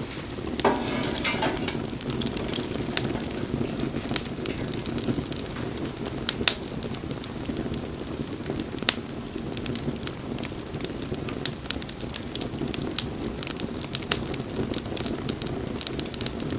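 Wood bonfire burning: a steady low rush of flame with frequent sharp crackles and pops from the burning wood, the loudest pop about six and a half seconds in. A short hiss about a second in.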